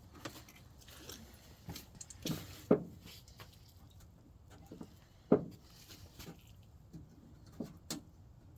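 Irregular metallic clicks and knocks from hand tools and parts being handled while working on a truck door latch, with two louder knocks a little under 3 seconds in and just past 5 seconds.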